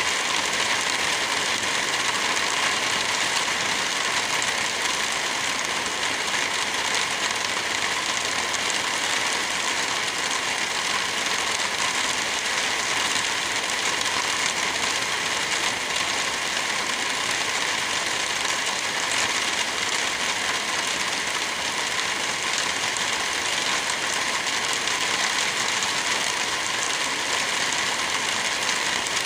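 Steady rain falling, an even hiss with no rumble of thunder standing out.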